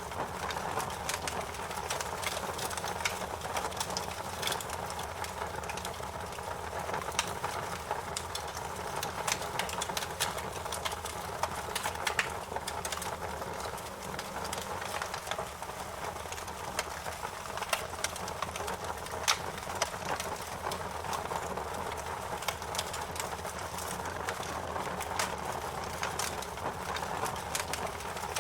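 Fire crackling in a fireplace: frequent, irregular sharp pops and snaps over a steady rush of flame.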